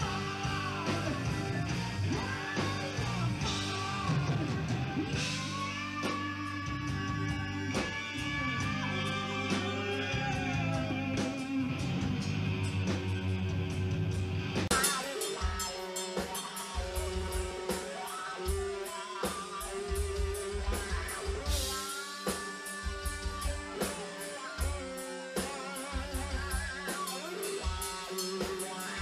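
Rock band playing with guitar, drum kit and singing. About halfway through the sound of the recording changes abruptly.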